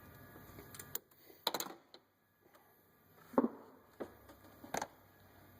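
A few scattered clicks and knocks of hand tools being handled around the engine bay after the belt work, the loudest about three and a half seconds in.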